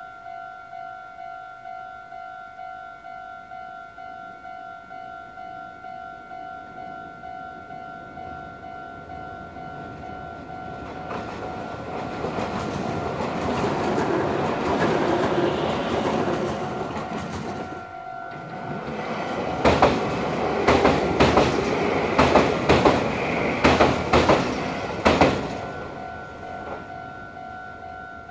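A Japanese railway level-crossing warning bell rings steadily at about two strokes a second. Meanwhile a Meitetsu 3500 series electric train approaches and passes, its running noise building from about ten seconds in. From about twenty seconds in, its wheels clack sharply and loudly over the rail joints for several seconds.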